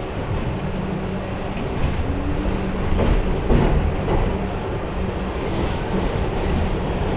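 Inside an R62A New York City subway car running on the rails: a steady low rumble and hum from the car's motors and wheels. A few louder knocks and clacks from the track come about three to four seconds in.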